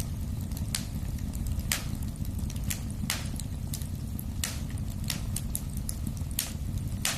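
Wood fire burning in a fireplace: a steady low rumble of flames with sharp crackles and pops at irregular intervals, about two a second.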